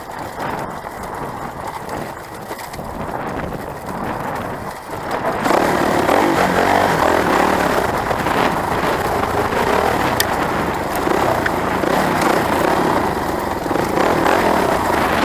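Off-road motorcycle being ridden along a dirt trail: engine and riding noise as an even rush, growing clearly louder about five and a half seconds in.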